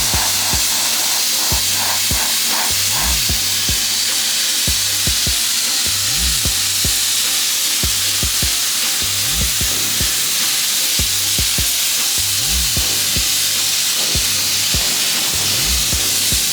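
Steady, loud hiss of a sandblaster's nozzle blasting at raised pressure. Background music with a deep bass beat runs underneath.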